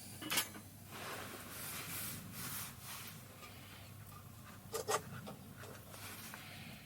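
Objects being handled and rubbed together: scraping and rustling, with a sharp click just under half a second in and a quick pair of knocks about five seconds in.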